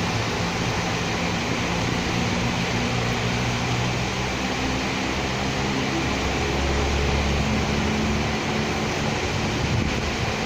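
Steady hiss of rain with the low hum of vehicle engines in city traffic underneath, a deeper rumble swelling a little past the middle.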